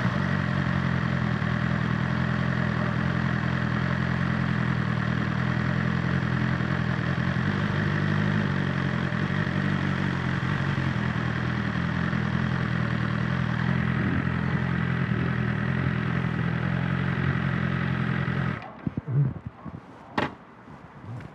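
BMW S1000XR's inline-four engine idling steadily at constant revs, then stopping abruptly near the end, leaving quieter scattered sounds and a single sharp click.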